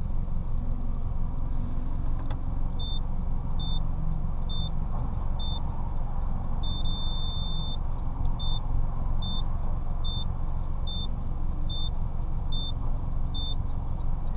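A 2005 Chevy Cobalt with custom exhaust idling steadily while parked. From about three seconds in, a short high electronic beep repeats a little faster than once a second; one beep near the middle is held for about a second.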